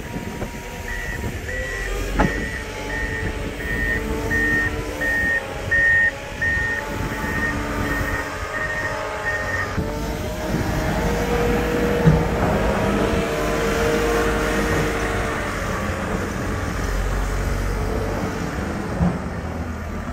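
Snowplow vehicle's engine running while its reversing alarm beeps about one and a half times a second; the beeping stops about halfway through and the engine carries on. A few sharp knocks come through, the loudest about two seconds in.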